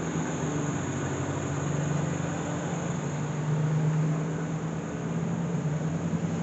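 A steady machine hum: a constant low drone under an even rushing noise, with no clear change.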